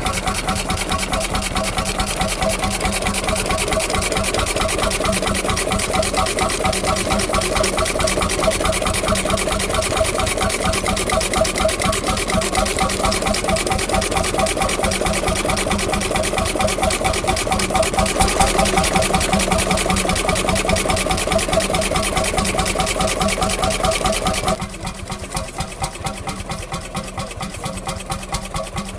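Vintage engine running steadily with a rapid, even beat. About 25 seconds in the sound drops abruptly to a quieter engine running at a similar pace.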